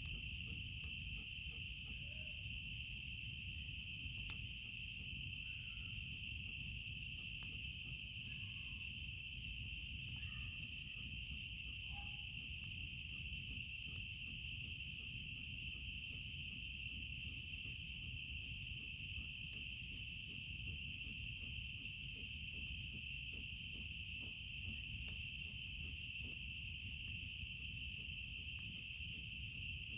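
A steady, high-pitched chorus of night insects such as crickets, with occasional faint crackles and pops from a small campfire. A few faint, short animal calls are heard in the first half.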